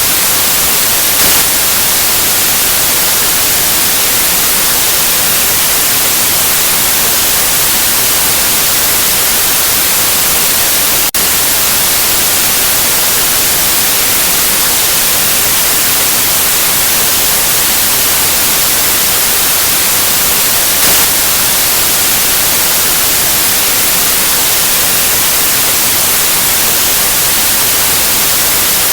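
Steady, loud white noise: an even hiss across all pitches, with one momentary dip about eleven seconds in.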